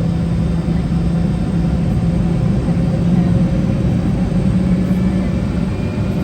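Boeing 717's rear-mounted Rolls-Royce BR715 turbofan engines running at low, steady power, heard inside the cabin near the tail as a constant drone with a strong low hum.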